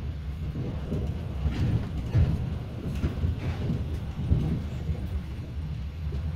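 A train passing on the track: a steady low rumble with several knocks from the wheels over the rails.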